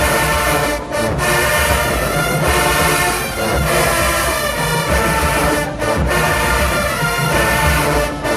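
Marching band playing loudly, its brass section carrying the tune over a heavy low-end beat.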